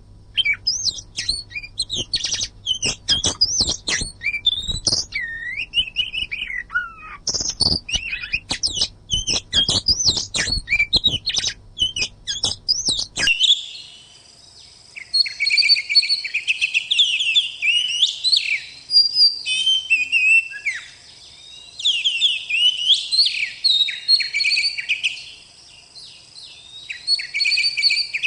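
Oriental magpie-robin (kacer) singing a fast, varied run of loud whistled and chattering phrases, with many sharp clicks and a low hum in the first half. About halfway through the recording changes abruptly to another stretch of denser, continuous song.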